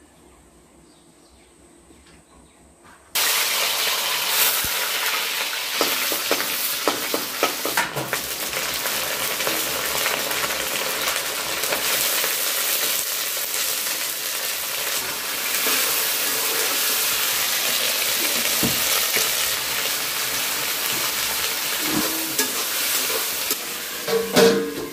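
Chopped green vegetables frying in oil in a steel kadhai. A loud, steady sizzle starts suddenly about three seconds in, with clicks and scrapes as they are stirred. Near the end a steel plate is set over the pan as a lid, with a clank.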